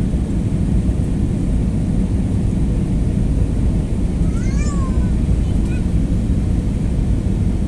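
Steady low noise of an airliner cabin in flight, with one brief high-pitched cry that rises and falls about halfway through.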